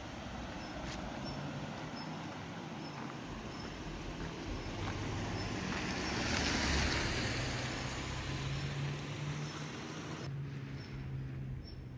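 A motor vehicle passing, its engine and tyre noise swelling to a peak about six or seven seconds in and then fading.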